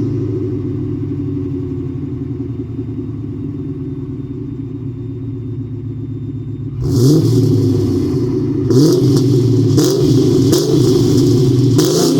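Ford Mustang V8 exhaust, fitted with a Rush Racing round sport resonator, idling steadily. About seven seconds in it is revved, then blipped several more times, each blip rising in pitch.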